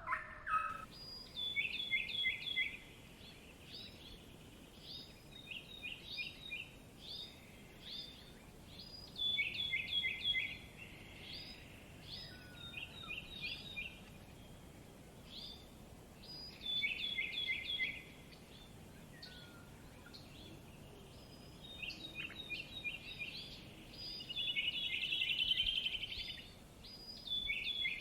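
Songbird singing repeated phrases of quick, high chirps, each phrase a rapid run of short downward-slurred notes, with pauses of a second or two between them. Near the end comes a longer buzzy trill. A faint, steady background noise runs underneath.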